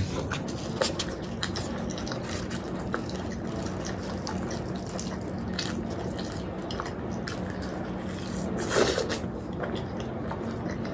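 Close-miked wet chewing and mouth clicks of a person eating, many small clicks throughout, with a louder wet squelch about nine seconds in.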